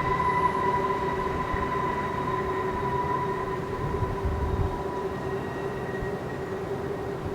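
Freight train rolling past, with a rumble and a steady high whine that fades slowly.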